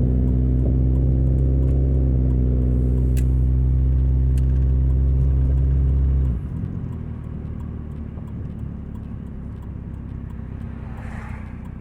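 2000 Nissan Altima's four-cylinder engine running with a loud, steady drone from its leaking exhaust. About six seconds in, the drone drops suddenly to a quieter, rougher rumble.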